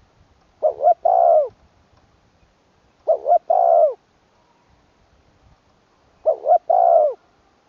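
Spotted dove cooing: three phrases about three seconds apart, each two short coos followed by a longer rolling coo.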